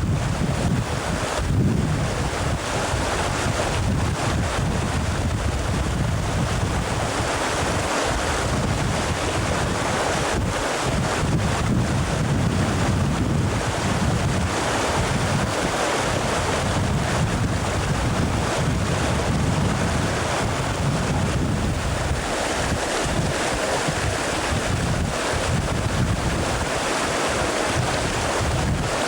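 Steady rushing river water, with wind buffeting the camcorder microphone in a low, uneven rumble.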